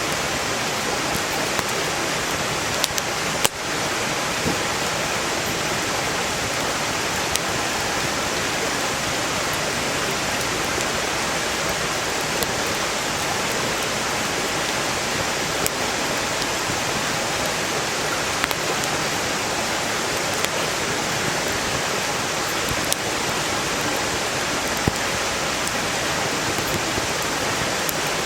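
Steady rush of a valley stream flowing past, with sparse sharp pops and crackles from burning firewood in a campfire.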